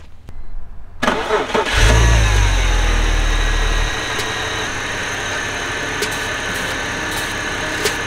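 BMW E46's inline-six cranks about a second in, catches with a brief high idle, then settles into a steady idle. The owners suspect an intake vacuum leak behind its check engine light.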